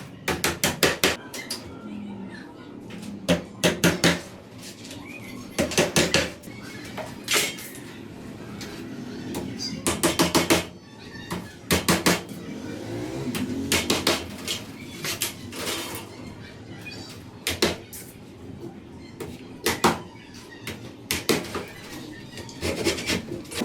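Bursts of quick, sharp taps and knocks as wooden sticks are worked and fitted for a handmade bird cage, several strokes in rapid succession, repeated in clusters with short pauses between.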